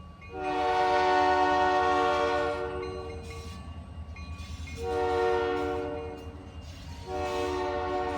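Diesel locomotive horn sounding three blasts of a multi-note chord: a long blast of about three seconds, a shorter one, and a third that begins near the end and is still going. A steady low rumble of the locomotive runs underneath.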